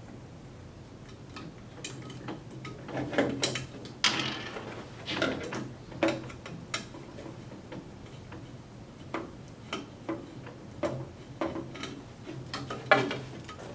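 Hand work with a Phillips screwdriver taking screws out of an exercise machine's cover: scattered light clicks, taps and knocks of the tool, screws and panel. There is a louder knock with a short scrape about four seconds in and another near the end, over a faint steady hum.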